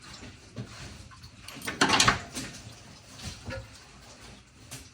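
Small clicks and a short, loud scraping rustle about two seconds in, from parts being unhooked and handled in a car's engine bay.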